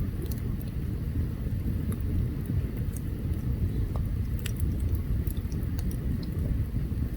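Open wood campfire burning: a steady low rumble with sparse, sharp crackles and pops scattered through it.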